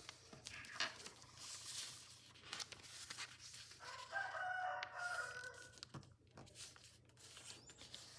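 Sheet of paper being folded and creased by hand: rustling and crisp crinkles with small clicks. About four seconds in, a pitched call lasting nearly two seconds rises above the paper sounds.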